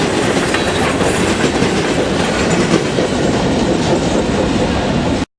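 Railroad cars rolling past, steel wheels clattering over the rail joints. The sound cuts off suddenly near the end.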